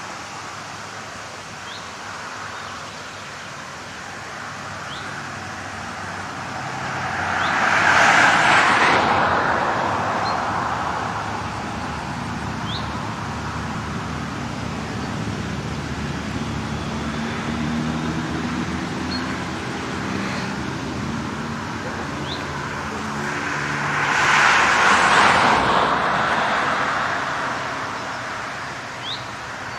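Two road vehicles passing one after the other, each swelling up and fading away over a few seconds, with steady traffic noise between and faint bird chirps.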